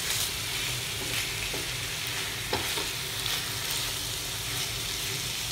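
Raw diced chicken sizzling steadily on a hot tawa over a high flame, with a few short scrapes as a spatula stirs the pieces.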